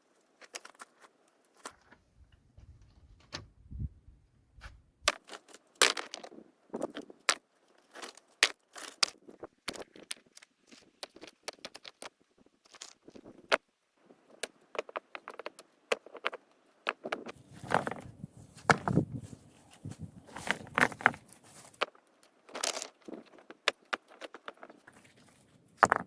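Irregular sharp clicks, knocks and scrapes from hands-on work, with a few dull thumps about three seconds in and again in the second half.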